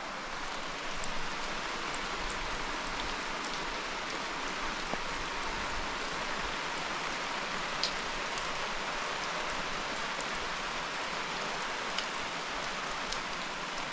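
Steady rain falling, a constant hiss with scattered single drops ticking close by.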